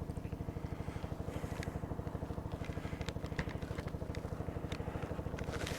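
Small motorcycle engine running steadily at low revs, with a fast, even putter. A few light ticks sound over it.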